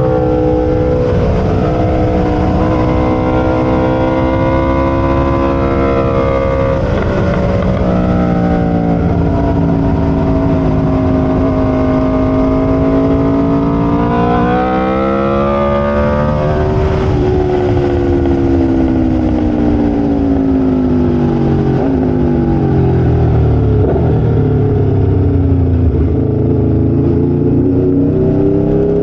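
Aprilia RSV4 V4 sportbike engine at racing revs, its pitch rising and falling as it accelerates, shifts and slows. The pitch climbs, breaks about seven seconds in, and climbs again to a peak about halfway. It then falls steadily for several seconds before rising slowly near the end.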